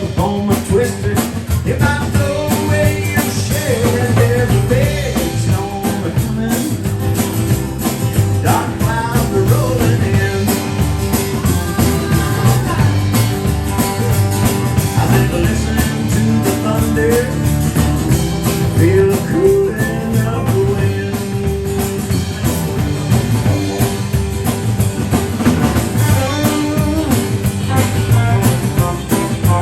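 Live band playing an instrumental break in a blues-rock song, with guitar over the rhythm section.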